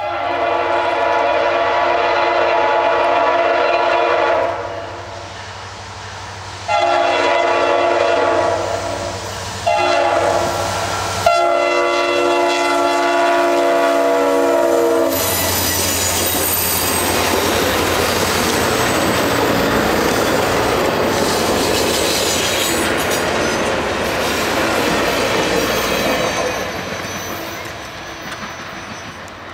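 A Norfolk Southern SD60E diesel locomotive's horn sounds the grade-crossing signal: two long blasts, a short one, then a final long blast. The train then passes close by with the clatter and rumble of wheels on the rails, fading near the end.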